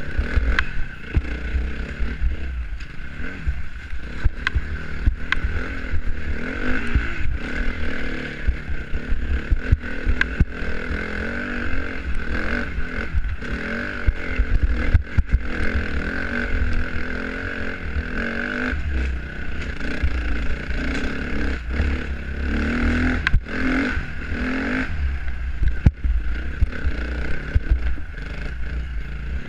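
Dirt bike ridden on a rough trail, its engine speed rising and falling over and over, with frequent knocks and clatter from the bike over the ground and a constant low rumble underneath.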